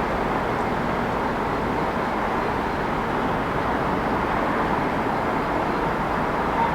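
Steady city traffic noise: a continuous, even wash of passing vehicles with no single event standing out.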